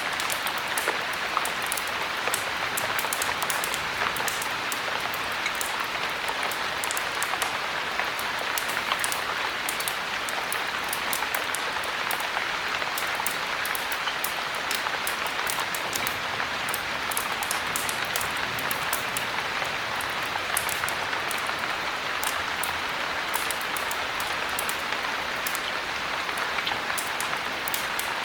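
Heavy rain falling steadily: a dense, even hiss dotted with many small sharp ticks of drops.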